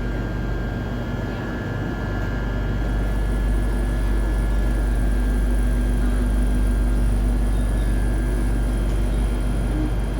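Steady low rumble and electric hum inside a KTM commuter train carriage. A few constant whining tones sit over the rumble, which swells slightly in the middle.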